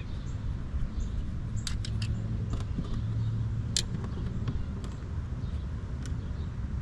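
Scattered light clinks and clicks of metal tools being handled, seven or so spread irregularly, over a steady low rumble with a brief low hum swelling in the middle.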